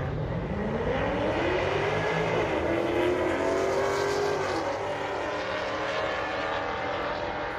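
Drag racing car launching and accelerating down the strip, its engine pitch climbing steeply and dropping back at gear shifts about two and four and a half seconds in.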